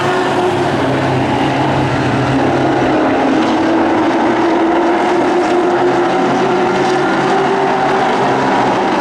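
Super Truck race trucks' engines running at speed around the oval: a steady, loud engine drone whose pitch wavers a little as the trucks circle.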